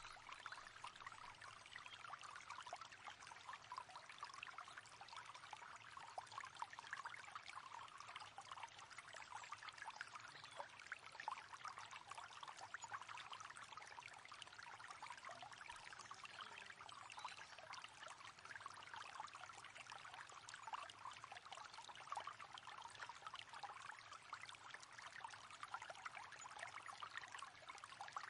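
River water flowing and trickling, a steady faint rush with a fine splashing texture.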